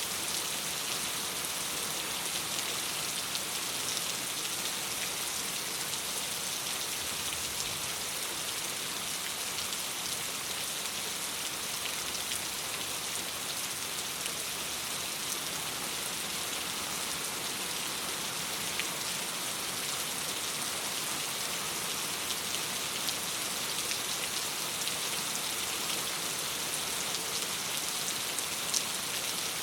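Steady rain falling against a window: an even hiss with a few sharp ticks here and there.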